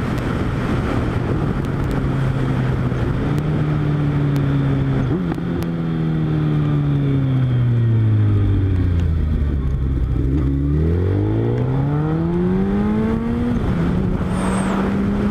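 Suzuki Hayabusa's inline-four engine heard from the rider's position over wind noise: the engine note falls steadily as the bike slows, then climbs as it accelerates and drops with a gear change near the end.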